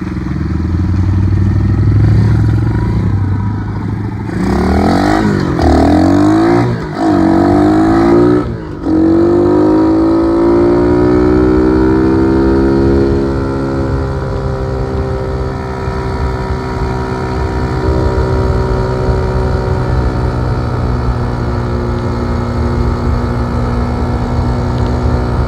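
Dirt bike engine revving up and down several times a few seconds in, then easing off and running at a steady low speed.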